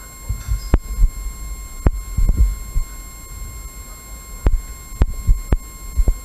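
About seven sharp, irregularly spaced clicks or snaps, over repeated low thuds and rumble.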